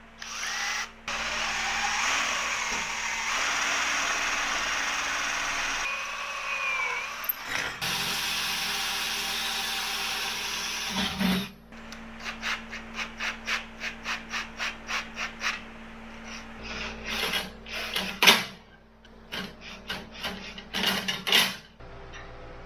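Power drill with a split-point bit drilling into steel for about ten seconds, its pitch shifting slightly. Then comes a run of quick regular clicks, about three a second, and a few sharp knocks near the end.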